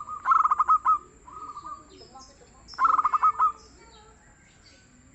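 Zebra dove cooing: two bursts of quick, staccato coos about two and a half seconds apart, with a shorter trill between them. Faint high chirps of other birds can be heard behind.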